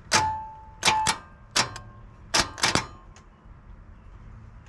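Sharp snaps and clicks, about eight in irregular bunches, as a copper jumper wire is touched to the battery to energise a truck's starter circuit. No cranking follows.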